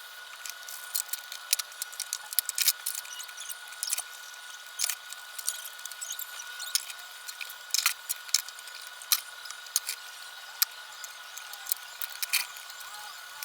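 Dishes and utensils being hand-washed: an irregular run of sharp clinks, clicks and small squeaks as wet plates and cutlery knock and rub together. A faint steady high hum runs underneath.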